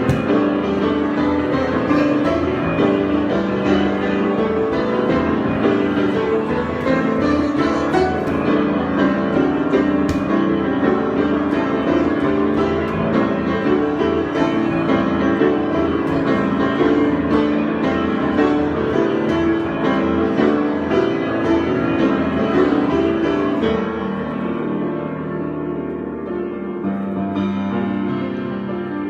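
Solo piano improvisation, a steady flow of many notes, growing somewhat softer in the last few seconds.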